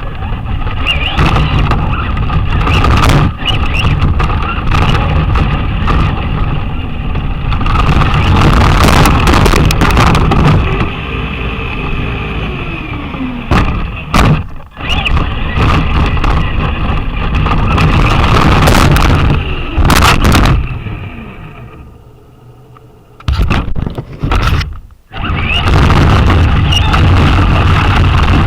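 Traxxas Slash RC truck driving, heard up close from a camera riding on it: a steady electric-motor whine over a loud rumble from the wheels and chassis on rough ground, with sharp knocks from bumps. The sound drops away for a few seconds near the end, then picks up again.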